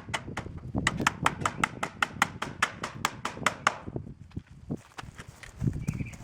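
Hammer tapping a nail into barn siding in a quick, even run of about five strikes a second, stopping a little over halfway through.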